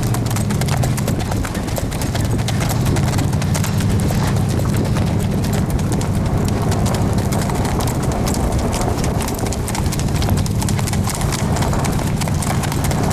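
Standardbred horse's hooves striking the ground in rapid, continuous clip-clop at a fast gait, over a steady low rumble.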